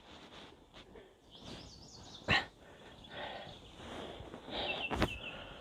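A dog barking twice, once about two seconds in and once near the end, with faint bird chirps between.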